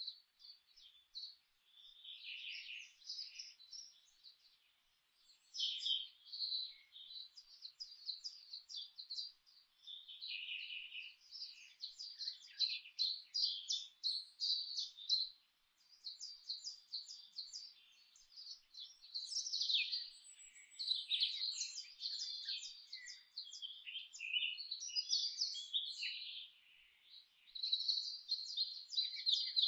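Small songbirds chirping and twittering, many quick high calls and trills overlapping, with a few brief lulls.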